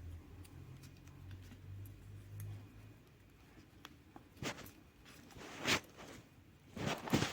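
Short scraping, rustling handling noises, three of them in the second half, the last the loudest.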